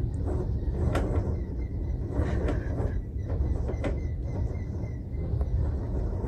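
Strong storm wind blowing hard, a heavy low rumble of gusts on the microphone, with a few sharp knocks and clatters along the way.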